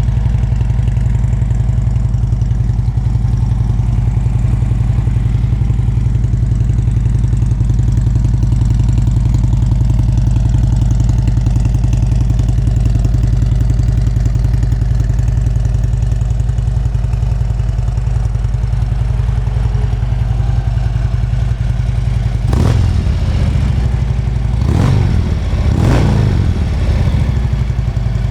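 2013 Harley-Davidson Road King's 103-cubic-inch Twin Cam V-twin idling with a deep rumble through Vance & Hines slip-on mufflers, then revved three times near the end.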